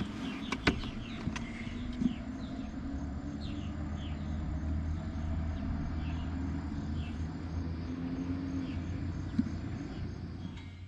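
A low steady hum, typical of a vehicle passing at a distance, swelling toward the middle and fading near the end. Short falling chirps repeat about once a second above it, and there are a few sharp clicks, one loudest near the start.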